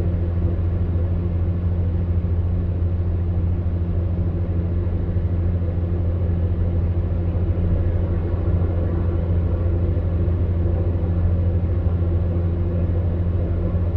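Electric fan heater running steadily: an even, monotonous low hum under a soft rush of blown air.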